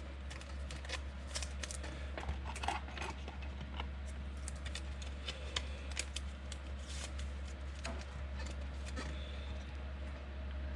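Trading cards being handled and flipped through: a scatter of light clicks and rustles over a steady low hum.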